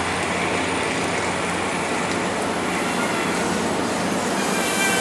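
MARC bilevel commuter cars rolling past the platform, a steady rumble of wheels on rail, with a faint high squeal near the end.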